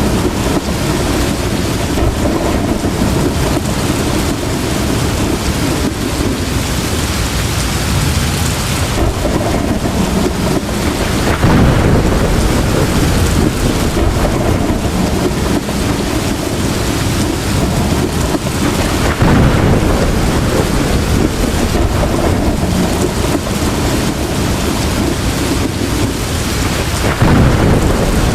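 Heavy tropical rain pouring steadily, with thunder rolling under it. The low rumble swells louder three times: about a third of the way in, about two-thirds in, and near the end.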